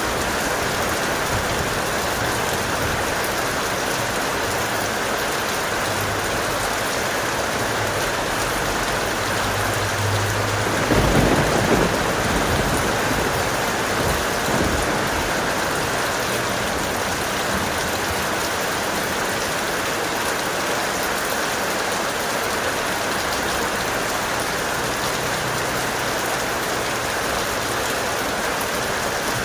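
Steady heavy rain, with a roll of thunder rumbling up about eleven seconds in and fading a few seconds later.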